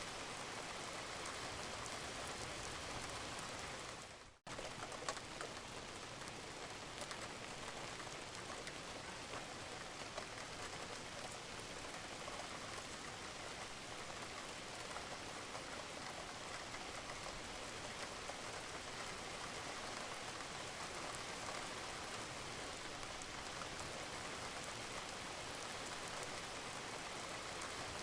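Steady rain falling on a roof: a dense, even hiss with scattered drop ticks. About four seconds in, it fades away for a moment and then cuts back in abruptly.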